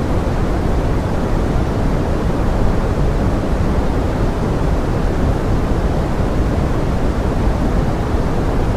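Steady pink noise: an even, rain-like rush, heaviest in the low end and thinning toward the top, without change or separate drops.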